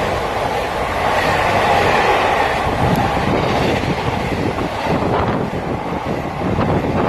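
A train passing close by: a steady loud rush of wheel and rail noise.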